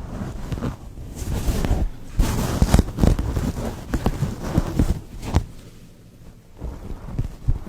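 Close-miked scratching and rustling against the microphone, full of crackles and sharp clicks, like fingers or a comb working over it in a mock scalp treatment. It is loudest through the first five seconds or so, then thins out to a few clicks.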